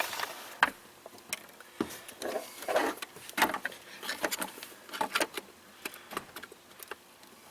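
Hands handling a car fuse box and its relays: light plastic clicks and taps at irregular intervals, with brief rustling.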